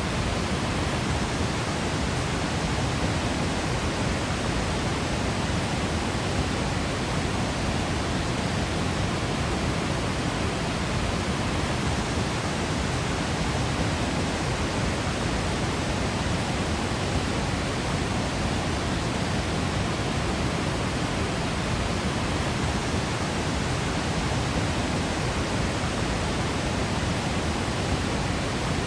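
Waterfall pouring in Yosemite: a steady, unbroken rush of falling water with no change in level.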